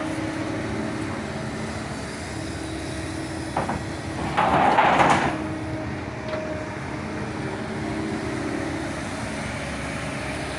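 Heavy earthmoving machinery's diesel engine running steadily. There is a sharp knock a little past three seconds in, then a louder, noisy rush lasting about a second near the middle.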